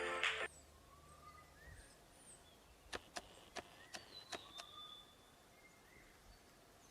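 Quiet forest ambience with scattered short whistled bird calls, some rising and some falling in pitch, and a quick run of sharp clicks near the middle. Background music cuts off about half a second in.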